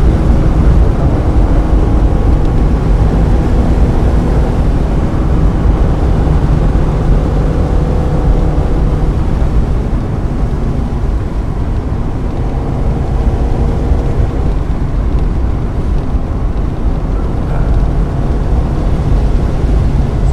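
1995 Mazda Miata's 1.8-litre four-cylinder engine under load on track, heard from inside the car, its pitch rising and falling as it accelerates, shifts and brakes, over a constant rush of road and wind noise.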